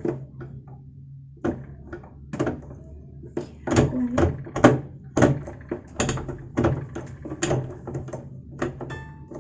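Irregular clicks and knocks from a portable sewing machine's stitch selector being turned and the machine handled, about a dozen sharp clicks, some with a dull thud, over a faint steady low hum.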